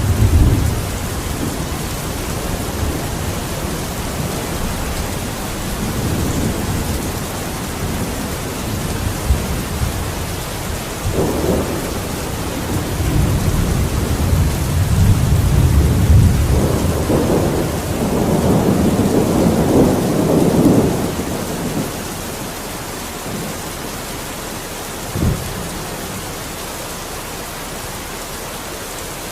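Steady rain with thunder. A long roll of thunder builds and fades in the middle, and a short low boom of thunder comes later over the hiss of the rain.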